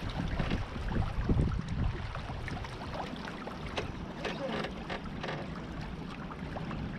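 Water washing and splashing along the hull of a small Beneteau First 20 sailboat under way, with wind rumbling on the microphone, heaviest in the first couple of seconds.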